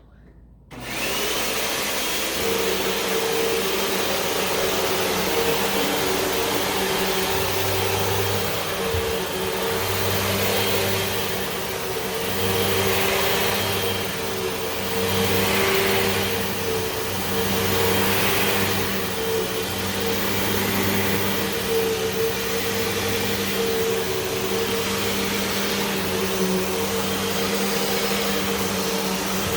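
Hoover WindTunnel 2 Whole House Rewind upright vacuum cleaner switched on about a second in and running steadily, its sound swelling and easing every two seconds or so.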